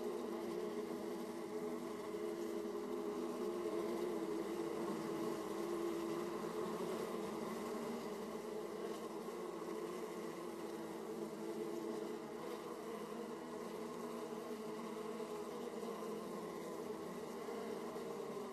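Honeybees buzzing in flight at a hive entrance: a steady, dense hum of many bees, several overlapping pitches, strongest in a low drone.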